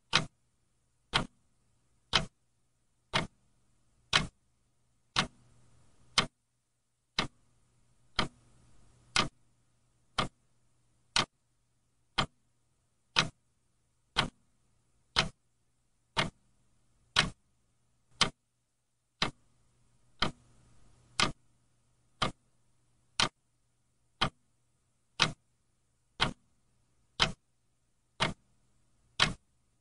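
A clock ticking steadily, one sharp tick about every second, with a faint low hum underneath.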